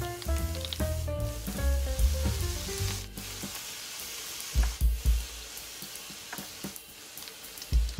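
Zucchini and onion sizzling in hot oil in a frying pan, the sizzle swelling about three seconds in as cooking wine goes into the pan. Background music with a melody and bass plays over the first three seconds.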